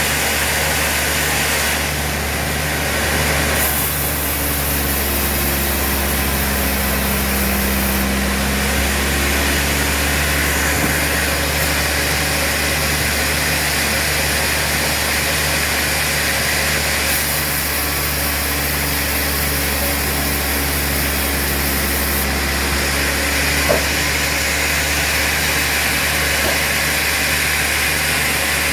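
Sawmill machinery running steadily with a constant hum and a regular low pulse about twice a second. Twice, about four seconds in and again about seventeen seconds in, a brighter high hiss rises over it for about four seconds.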